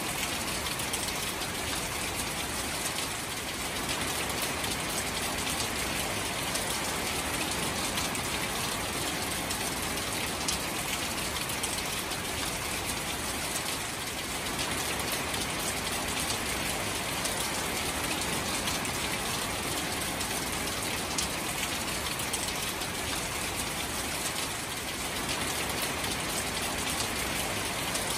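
Steady rain falling on shallow standing water among grass, with many small drops splashing on the surface.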